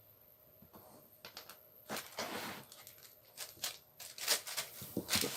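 Small parts of an angle grinder being handled by hand: scattered clicks, light knocks and rustling, starting about a second in and growing busier toward the end.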